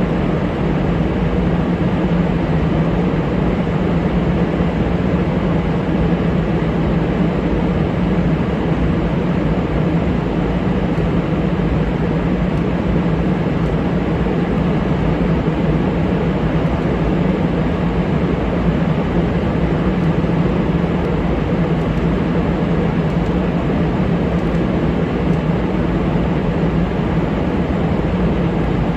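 Steady, unchanging jet engine noise from the F-35A Lightning II's Pratt & Whitney F135 turbofan: a constant rush with a low hum underneath, with no rise or fall.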